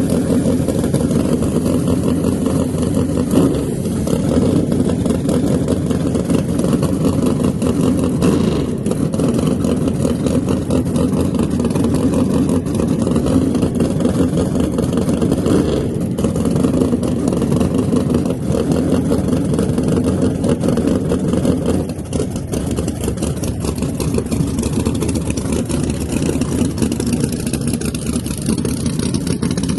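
A drag car's engine running steadily, with no clear rev-ups.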